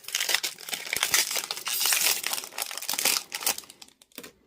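Foil booster pack wrapper being torn open and crinkled by hand, a dense run of crackling that thins out and stops about four seconds in.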